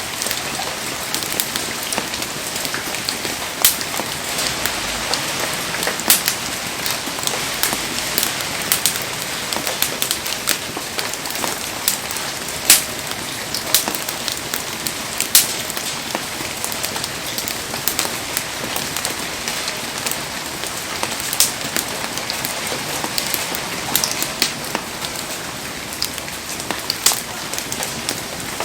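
Heavy rain falling steadily, with many sharp irregular pops scattered through it.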